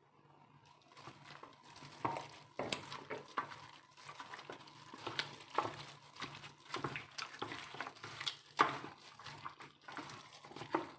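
Raw chicken pieces being stirred and turned in a thick, wet marinade in a bowl. The sound is a run of irregular squelches and small clicks, starting about a second in.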